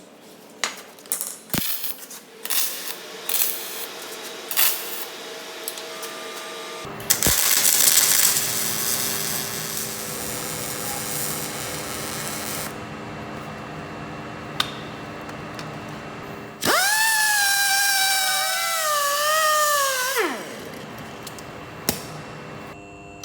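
Workshop tool sounds: a run of sharp metallic clicks and taps, then a power tool running with a steady rushing noise. Near the end a motor whine rises and wavers in pitch for a few seconds, then stops.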